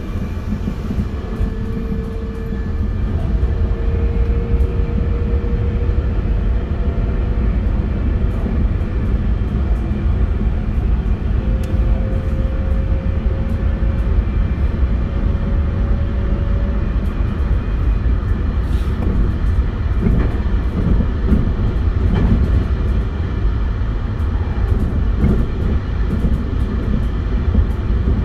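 Running noise of a JR West 271 series electric train, heard from inside the car: a steady low rumble of wheels on the rails, with a faint whine from the Hitachi SiC inverter-driven traction motors that rises slowly in pitch twice as the train gathers speed.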